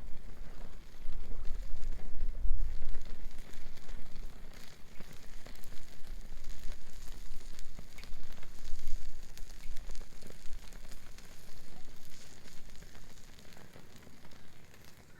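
Wood bonfire crackling and popping, with many small sharp snaps over a steady hiss. A low rumble sits under it, strongest in the first few seconds.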